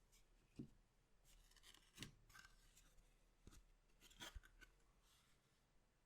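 Faint handling of collectible trading cards and their paper and plastic packaging: soft rustling with a handful of light taps and clicks.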